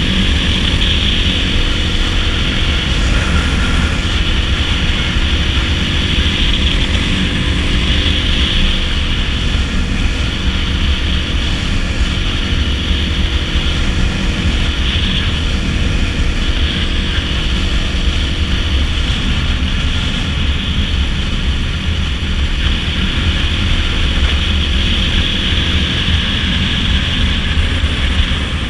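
Dirt bike engine running at a steady cruising speed under heavy wind rush on the microphone. The engine note shifts a little about a third of the way in and again near the end.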